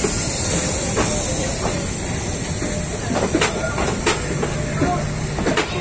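Vietnam Railways passenger coaches rolling past close by: a steady rumble and hiss of wheels on rail, with sharp clacks now and then as the wheels cross rail joints.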